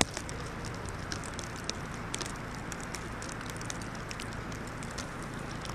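Steady wind noise in a snowstorm, with many faint, scattered crackles and ticks over it.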